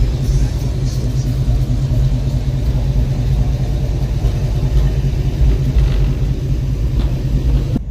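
A car engine running with a steady low rumble, which cuts off abruptly near the end.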